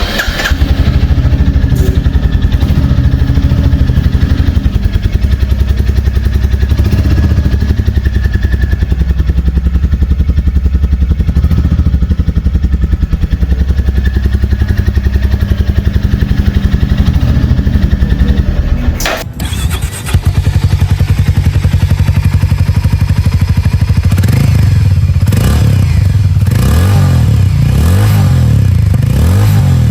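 Single-cylinder motorcycle exhaust idling with a steady beat, then, after a cut about two-thirds of the way in, a second recording of a motorcycle being revved several times, the pitch rising and falling with each blip of the throttle.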